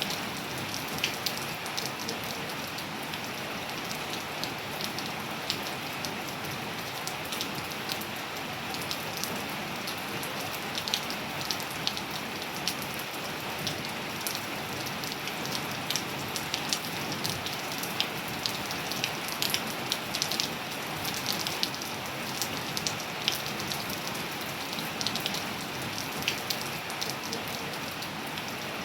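Steady rain with a continuous hiss, and many individual drops landing close by as sharp ticks scattered irregularly throughout.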